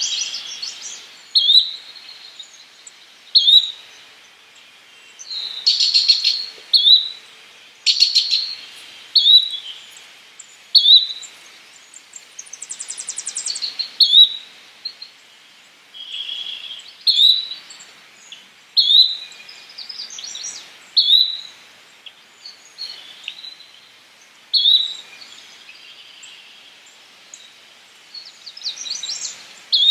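Yellow-bellied flycatcher giving a short, sharp call over and over, about every second or two, with other birds chattering and one fast trill in between.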